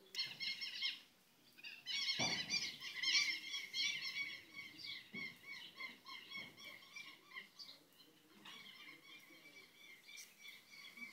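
Small birds chirping in a fast, busy chatter of short high notes that thins out in the second half. A soft thump comes about two seconds in, with a few faint knocks later.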